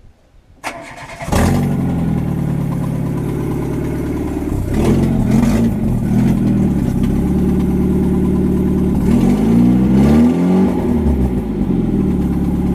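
Renault Clio's four-cylinder petrol engine cranked by the starter and catching about a second in, then idling through a freshly welded homemade exhaust that still has small holes in the pipe. It is blipped up and back down twice, around the middle and again near the end.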